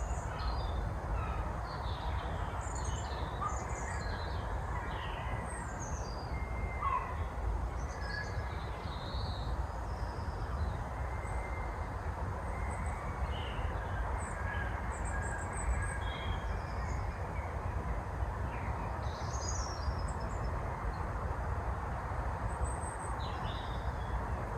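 Woodland songbirds chirping and calling in short, scattered phrases, over a steady low background rumble.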